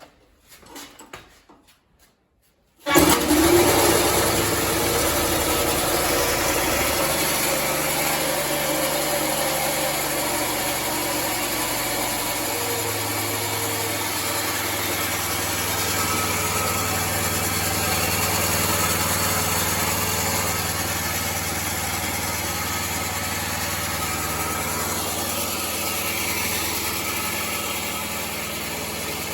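The excavator's new petrol engine starting on its first run after assembly: a few faint clicks, then about three seconds in it catches suddenly and runs steadily, its note shifting lower about twelve seconds in.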